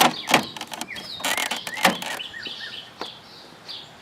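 Sharp clicks, knocks and creaks from a window air conditioner's casing being handled, loudest in the first two seconds, with birds chirping in the background.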